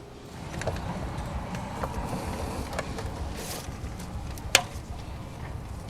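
A vehicle's low engine rumble, starting about a third of a second in and staying steady, with one sharp click about four and a half seconds in.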